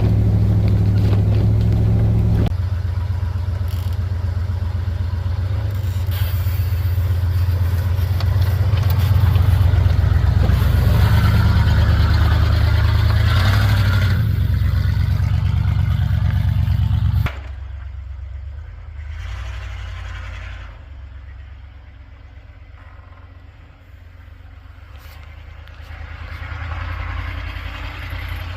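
Chevrolet pickup plow truck's engine running steadily, then about two-thirds of the way through the sound drops sharply to a much quieter low engine idle.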